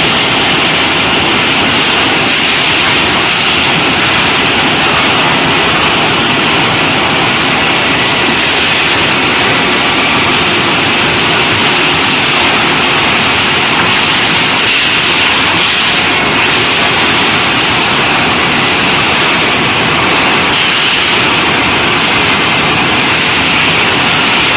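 Steady, loud hissing noise of industrial heating equipment running, with no rhythm or clear tone.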